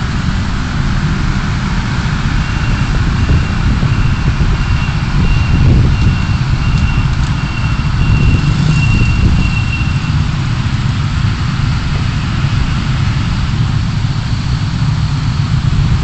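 Car driving, heard through a dashcam: a steady low rumble of engine and road noise. A faint high thin tone runs through the middle part.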